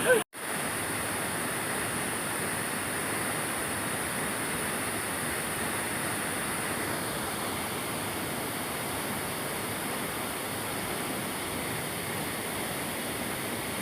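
Waterfall: a steady rush of falling water. It cuts out for a moment just after the start, then carries on unchanged.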